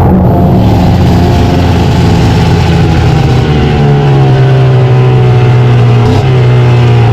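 Vintage two-stroke snowmobile engine running hard at high revs. Its pitch eases a little lower past the middle and dips briefly near the end.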